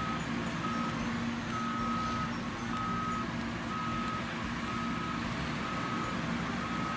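A vehicle's reversing alarm beeping about once a second, a single high tone, over a steady low engine drone.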